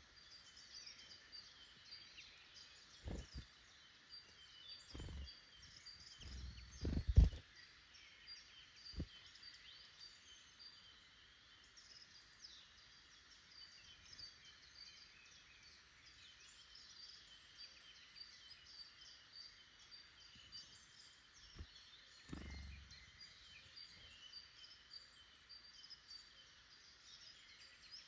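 Many woodland birds chirping and calling together in a steady chorus of short notes. A few dull low thumps come through, the loudest about seven seconds in, with smaller ones around three, five, nine and twenty-two seconds.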